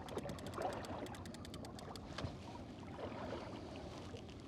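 Fishing reel being cranked to bring in line, a fast, even run of light clicks that fades out about two seconds in, over a low background of water and boat noise.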